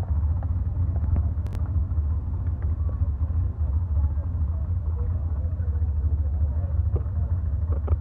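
Steady low rumble of a vehicle engine running, with faint voices in the background.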